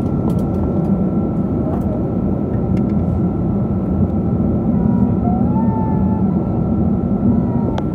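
Steady cabin roar of a Boeing 777-200 airliner heard from a window seat, with a thin steady whine above the low rumble and a few faint clicks.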